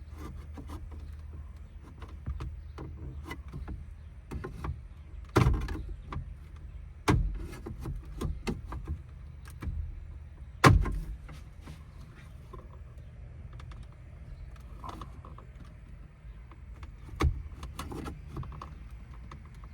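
Plastic dashboard trim in a 2009 Ford F250's cab being pried and handled: scattered clicks and rattles with four sharp snaps or knocks, the loudest about 11 seconds in, over a low steady hum.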